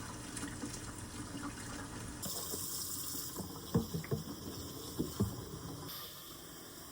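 Hot water running from a kitchen tap into a water jug, a steady rush that brightens about two seconds in, with a few light knocks in the middle.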